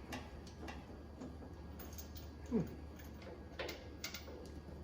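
A few faint, scattered metallic clicks and taps of a spark plug and socket being worked into the cylinder head as the plug resists threading, with one short falling squeak about halfway through, over a low steady hum.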